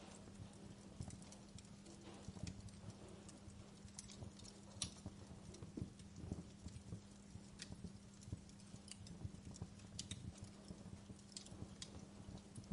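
Wood fire crackling quietly, with irregular sharp pops and snaps and a few low thuds over a steady low hum.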